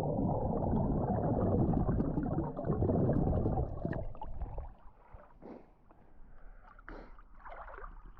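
Lake water churning around a GoPro camera, muffled and dull for the first four seconds or so as a swimmer pushes off into the water. Then it drops to quieter, separate splashes of swimming strokes.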